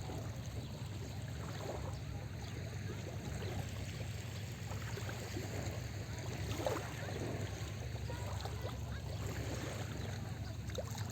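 Small sea waves lapping and splashing at the shoreline, a steady wash of little splashes with a low rumble underneath and one slightly louder splash a little past the middle.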